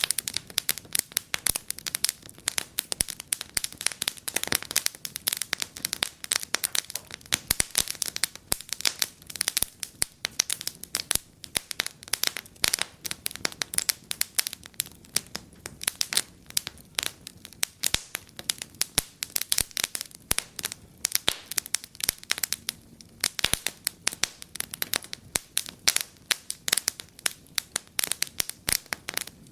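Wood fire in a fireplace crackling and popping steadily, with many quick, irregular snaps.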